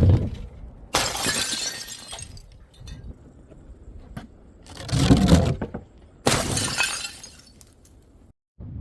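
Glass shattering twice, about a second in and again past the six-second mark, each a sharp crash followed by pieces tinkling as they settle. A heavy low thud comes shortly before the second crash.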